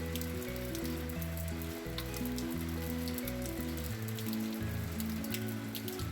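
Background music of slow, held low notes over a steady crackling hiss with scattered sharp ticks.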